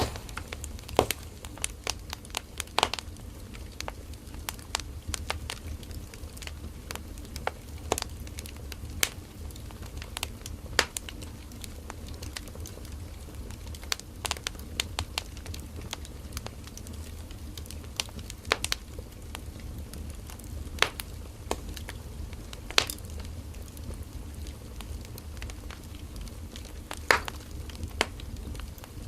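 Firewood burning in a campfire, crackling and popping in irregular sharp snaps over a low steady rumble of the flames.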